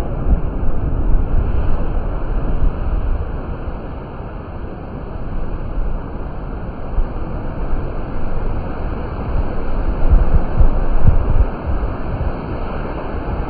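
Wind buffeting the microphone in gusts over a steady low rushing roar.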